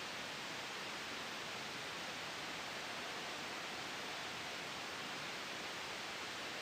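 Steady, even white-noise hiss blended with a soft wind sound, strongest in the upper-middle range, with no gusts or changes.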